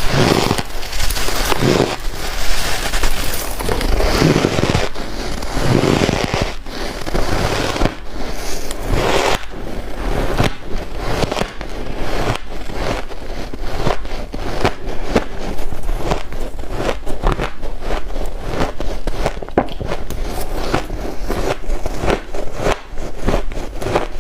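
Close-up crunching of white ice being bitten and chewed, a dense run of sharp crackling crunches that never lets up.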